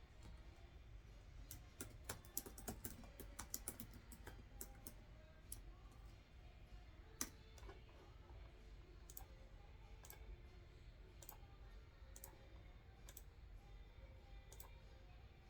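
Quiet computer keyboard typing in a quick run of key clicks over the first few seconds, then single clicks spaced about a second apart.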